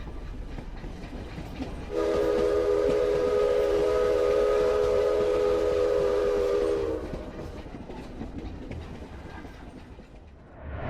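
Train sound effect: a train rumbling along, with its multi-note horn held steady for about five seconds starting about two seconds in, then the rumble fading away.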